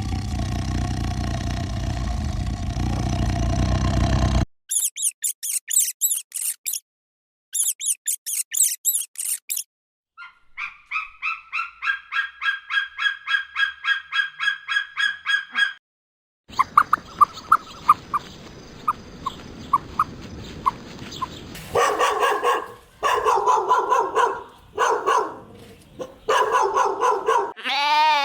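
Several different farm animals calling in turn, cut abruptly from one clip to the next: a loud low call for the first four seconds, then fast high chirping, then evenly repeated calls at a few per second, and several longer calls near the end.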